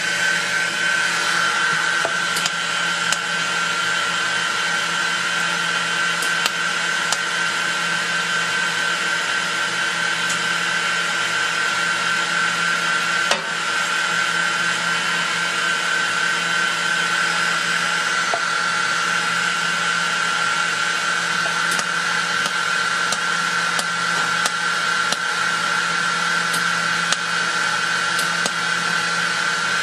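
Jewelry laser welding machine running, a steady whir with a high whine and a low hum, broken by sharp ticks every second or two as it fires welding pulses.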